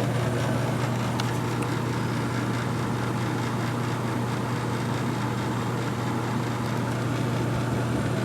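1952 Vornado room air conditioner running, freshly recharged with R-12: a steady hum from the compressor and blower motor under an even rush of air from the centrifugal blowers and condenser fan.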